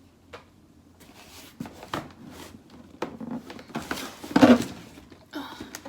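Packaging and items being handled: scattered rustles and light knocks, with one louder knock about four and a half seconds in.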